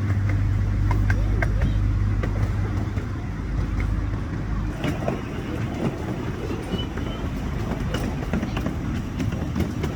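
Miniature ride-on train running along the track: a steady low rumble with scattered clicks and rattles from the wheels on the rails. About halfway through, a deep steady hum drops away and a rougher rattle takes over.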